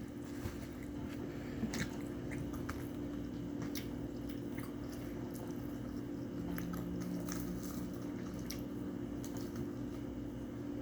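A person chewing food with scattered soft, wet mouth clicks, over a steady low hum.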